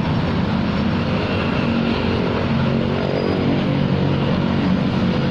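Steady hum of an engine running, its pitch shifting slightly up and down about halfway through.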